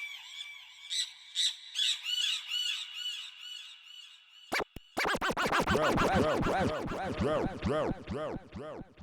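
Electronic synthesizer sound effect: rapid overlapping chirps that each rise and fall in pitch, sparse and high at first, then denser and louder from about halfway before thinning and fading away near the end.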